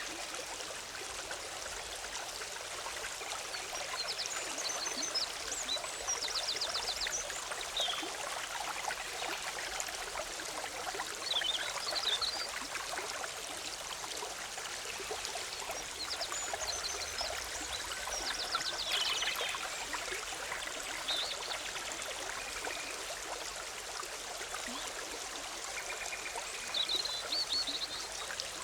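A forest stream running steadily over rocks, with birds chirping now and then above it, including a couple of quick high trills.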